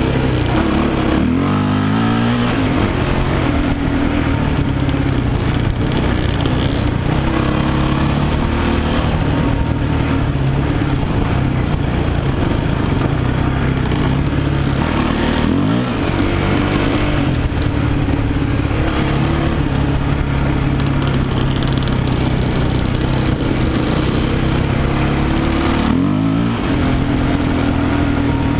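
Off-road motorcycle engine running under way on a dirt track, heard from the bike itself. The engine note dips and climbs again three times: about a second in, about halfway, and near the end.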